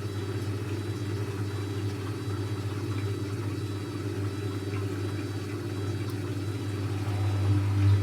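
Techwood WB 91042I washing machine running with a steady low hum. Near the end it grows louder and a second steady tone joins it.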